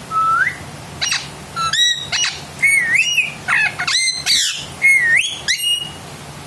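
Pet parrot whistling and chirping: a rapid string of short whistled notes that slide up and down, with a single rising whistle at the start and the busiest run from about two seconds in until near the end.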